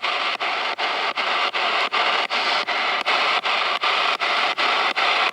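Spirit box radio scanner sweeping through stations: a steady hiss of radio static that breaks about four times a second as it jumps from one station to the next.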